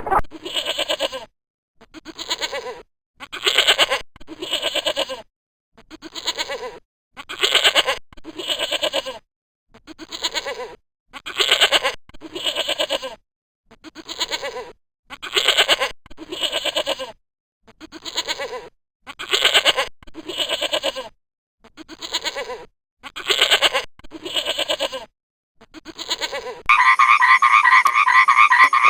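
An animal calling over and over: short pitched calls with a fast quavering pulse, mostly in pairs with short silences between. Near the end a different, steadier animal sound takes over.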